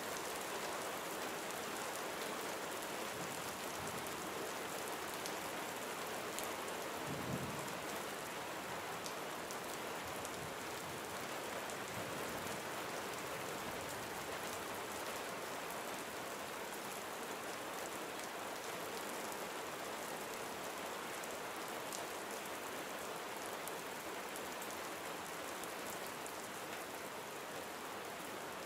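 Gentle rain falling steadily, drops pattering on surfaces. There is one brief low thump about a quarter of the way in.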